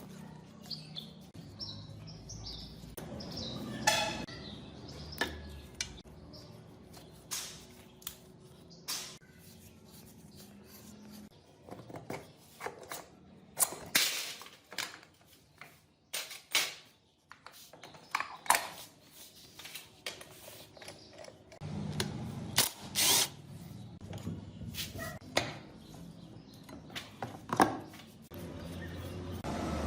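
Hand-tool work on motorcycle parts: scattered sharp metal clinks and knocks, a few ringing briefly, with a low murmur between them.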